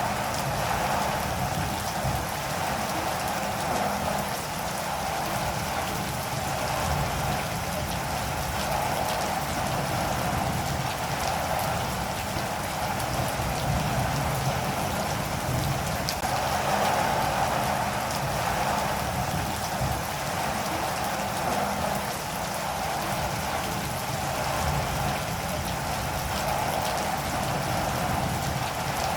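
Steady rain falling, an even hiss of drops with scattered small ticks of individual drops striking a surface.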